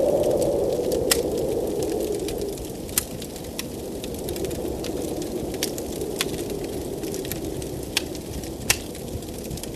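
Wood fire crackling, with sharp irregular pops over a steady blizzard wind howling low, the wind strongest near the start and easing a little after a couple of seconds.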